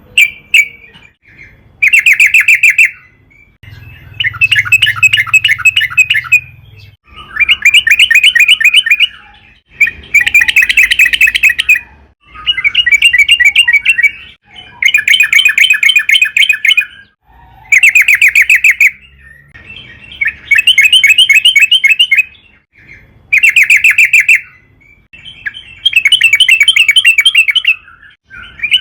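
Yellow-vented bulbul (trucukan) singing loudly in repeated phrases of fast, bubbling chattered notes, each phrase one to two seconds long, with short pauses between them.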